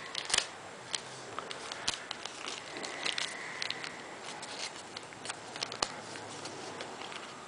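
A sheet of paper being handled and folded: scattered, irregular crinkles and soft clicks as it is creased and turned.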